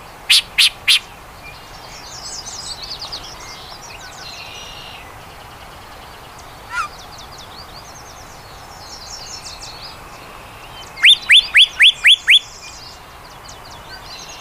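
Yellow-breasted chat singing: three loud harsh notes near the start, a lone note midway, then a quick run of six whistles, each falling in pitch, near the end. A faint chorus of high trills from other birds runs underneath.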